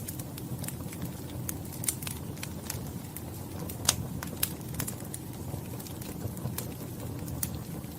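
Wood fire crackling in a fireplace: a steady low rush of flames with irregular sharp pops and snaps, the loudest about four seconds in.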